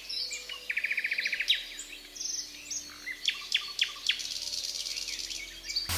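Forest ambience of birdsong and insects: a rapid high trill about a second in, then a run of quick falling chirps and a high-pitched insect buzz.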